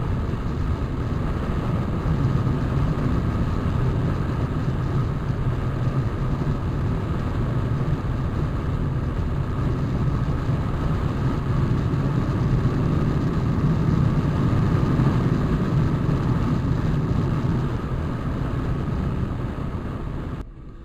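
Motorcycle engine running steadily at road speed, with road and wind noise. The sound cuts off abruptly near the end.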